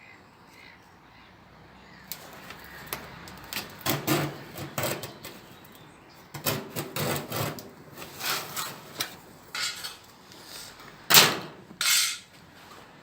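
Sheet-metal workshop sounds: an irregular run of short scrapes and knocks as a steel panel is handled and worked, with two sharper knocks near the end.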